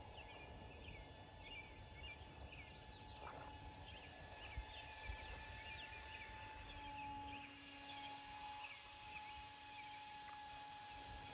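Faint birds chirping over and over in quick short notes, with a faint, steady distant whine from the airborne RC plane's electric motor and propeller.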